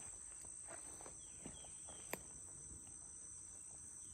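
Steady high-pitched chorus of insects such as crickets, with faint scattered ticks and one sharp click about two seconds in.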